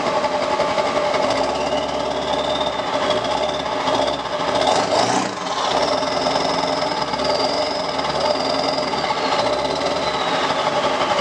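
Straight-piped 7.3 L Powerstroke V8 turbo-diesel running, with the turbo's high whistle rising and falling over the engine, sweeping up sharply about five seconds in.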